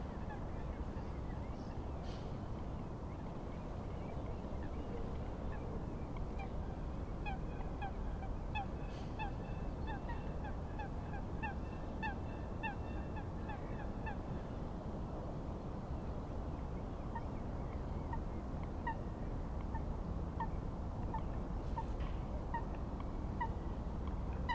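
A bird giving short, repeated honking calls, quickly at first and then more sparsely in the second half. Under it runs a steady low rush of wind and waves.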